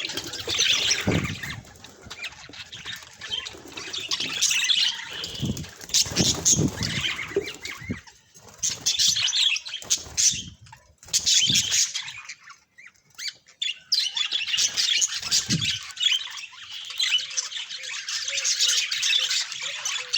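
Budgerigars chattering and squawking, with a short lull about two-thirds of the way through, and a few low thumps among the calls.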